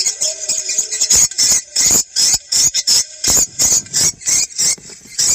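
Edible-nest swiftlet lure call played back: a rapid, uneven run of short, high, sharp chirps, several a second, with no let-up.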